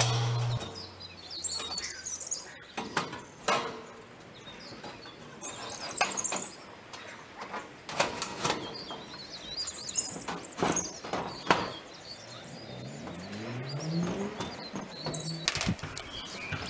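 Small birds chirping, with scattered short clicks and knocks, and a low sound rising in pitch about two-thirds of the way through.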